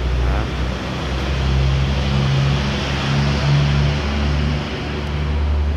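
Car engine idling steadily: a low hum with a hiss above it, swelling slightly in the middle.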